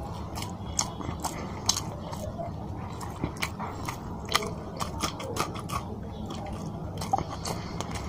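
Close-miked chewing of a mouthful of rice and fish curry eaten by hand, with irregular wet mouth clicks and smacks.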